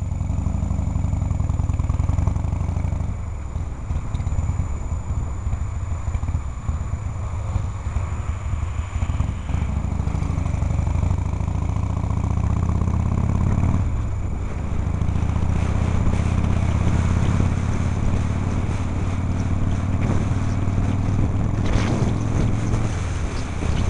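Harley-Davidson Shovelhead V-twin motorcycle engine heard from the rider's helmet, pulling away and accelerating through traffic. The engine note rises as the revs climb, drops suddenly at a gear change partway through, then runs steadily at cruise.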